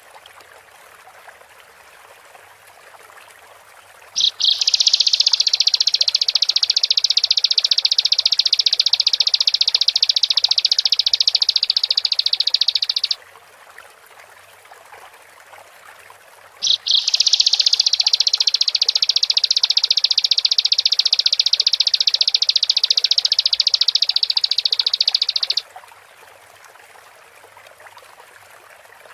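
Bar-winged prinia (ciblek) singing two long, fast, high-pitched trills of about nine seconds each. The first starts about four seconds in and the second follows after a few seconds' pause, over a faint steady hiss.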